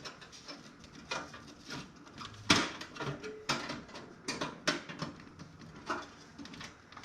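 Irregular knocks, taps and clicks of parts being handled and fitted into a toaster oven's metal case, about a dozen in all, the loudest about two and a half seconds in.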